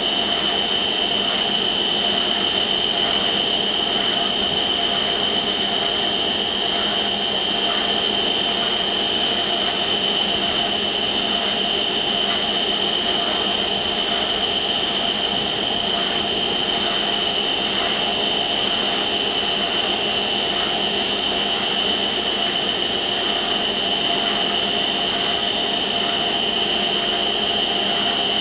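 Large machine, the No. 1 unit, running steadily under 30–60% load with a constant high whine over a dense mechanical drone, a noise that is logged as abnormal.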